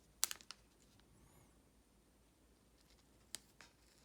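Quiet room with a few faint, short clicks and rustles of trading cards and card sleeves being handled, one pair of clicks just after the start and another near the end.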